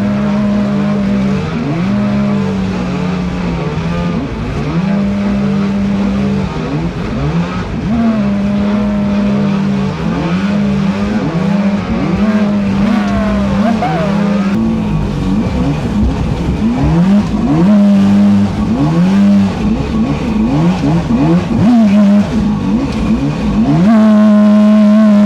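A battery-powered creek boat's motor running with a steady whine that steps up and down in pitch every second or two as the throttle changes, over a rush of churning water.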